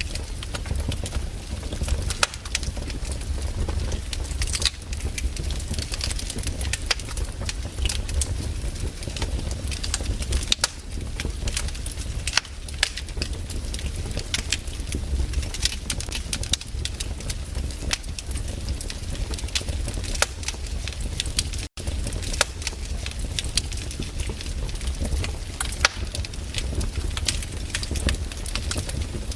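Wood campfire burning, with frequent irregular crackles and pops over a steady low rumble of the flames. The sound drops out for an instant a little past two-thirds of the way through.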